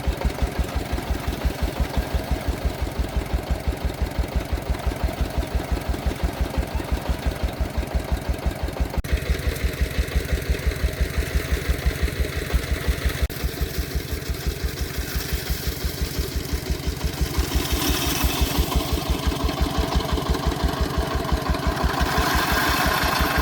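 Single-cylinder diesel engine of a công nông farm truck running with an even, rapid chug. A hiss rises over it for a few seconds after the middle.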